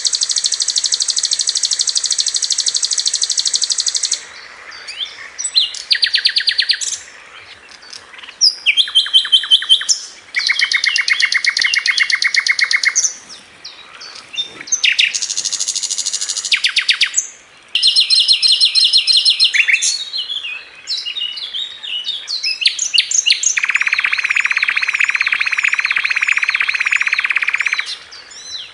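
Sikatan londo flycatcher song: a string of rapid trills, each a fast run of repeated notes at its own pitch, with short breaks between them. The song opens with a long high trill and has a long, lower, denser trill near the end.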